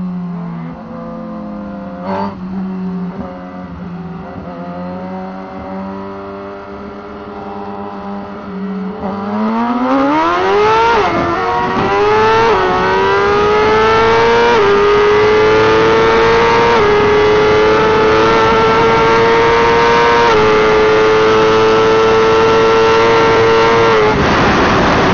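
Suzuki GSX-R1000 sportbike's inline-four engine at full throttle in a race run. It runs low and steady for about nine seconds, then revs up hard, the pitch climbing and dipping at about five quick upshifts.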